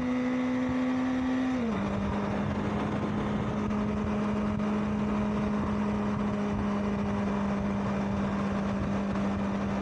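Honda CBR650R inline-four engine running steadily under way, its pitch dropping about 1.7 s in and then holding at the lower note, with wind rush over it.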